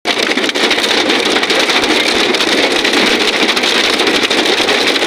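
Heavy rain mixed with hail pelting down: a dense, steady noise laced with many small sharp hits.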